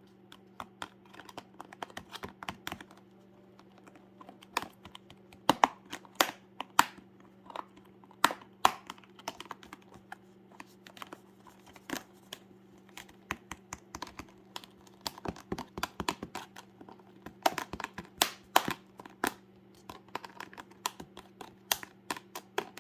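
Monk parakeet's beak pecking and prying at a sealed plastic box: an irregular run of sharp plastic clicks and taps, a few much louder than the rest, over a faint steady hum.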